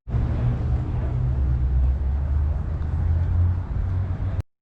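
A car engine running with a low, steady rumble that settles to a deeper tone after about a second and a half.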